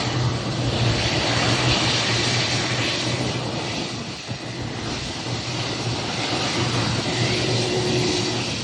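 Airliner engines running: a loud, steady rushing roar with a low hum underneath, easing slightly for a moment about halfway through.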